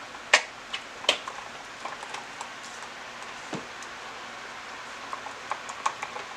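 Spoon stirring slime in a plastic container, with two sharp clacks in the first second and scattered smaller clicks and ticks after, over a steady hiss.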